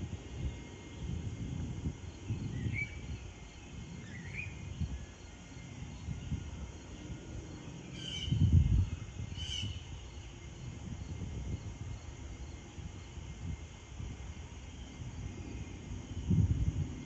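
Outdoor ambience of insects chirping in a steady, evenly repeating pulse, with two short rising bird chirps a few seconds in. Under it an uneven low rumble swells and fades, loudest about eight and a half seconds in.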